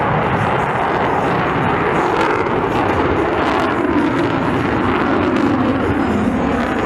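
Jet noise of a C-17 Globemaster III's four turbofan engines as the transport flies by overhead. It is a loud, steady rush with a low drone that falls slightly in pitch in the second half.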